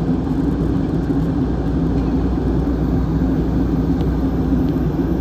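Jet airliner cabin noise during takeoff or climb: steady engine and airflow noise with a low rumble and a hum band beneath.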